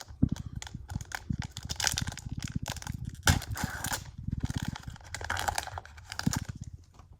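Plastic wrapper of a Topps trading card pack being torn open and crinkled in the hands, with the cards rustling as they are handled.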